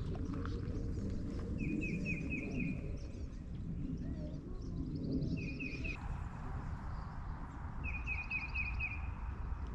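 A songbird sings a short run of quick chirps three times, over a steady low rumble of outdoor background noise. A fainter hiss joins about two-thirds of the way through.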